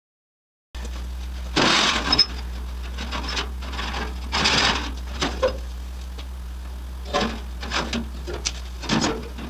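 A moment of dead silence, then a steady low hum with several short scraping or rubbing strokes on metal or wood: two longer ones, then a quicker run of shorter ones near the end.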